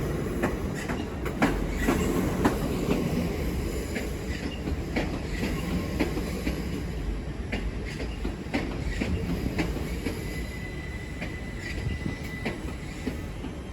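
Pair of GWR Class 387 electric multiple units rolling slowly into the platform, wheels clicking over rail joints and pointwork. A thin wheel squeal sounds for a couple of seconds about two-thirds of the way through.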